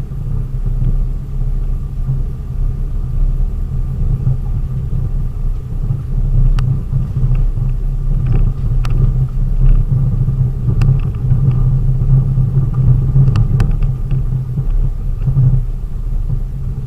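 A vehicle driving: a steady low engine and road rumble, with a few short sharp clicks or knocks in the second half.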